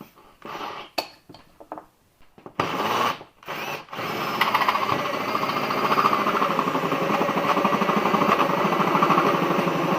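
Cordless drill spinning a 1 1/8 inch hole saw cutting into a GM starter's end cover, with a fast chatter. It comes in with a short burst about two and a half seconds in, then runs steadily from about four seconds in. A few handling knocks come before it.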